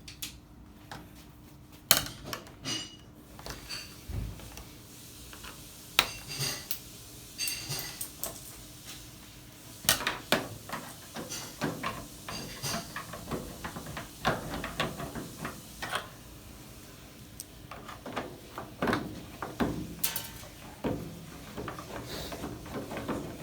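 Irregular clicks, knocks and clatter of tools and plastic and metal parts being handled while an LG top-load washing machine is taken apart to reach its faulty lid lock.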